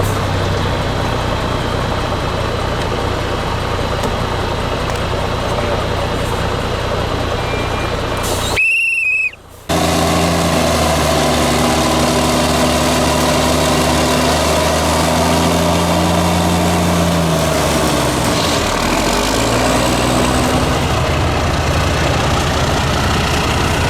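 Diesel engine of a 6x6 MAN trial truck running under load, its pitch steady for several seconds, then falling as the revs drop about eighteen seconds in and rising again. The sound breaks off for about a second around nine seconds in.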